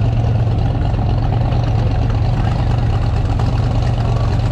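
A vehicle engine running steadily at idle, a low, even hum that does not change.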